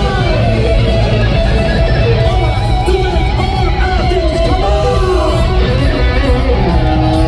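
Live rock band playing loudly, led by electric guitars.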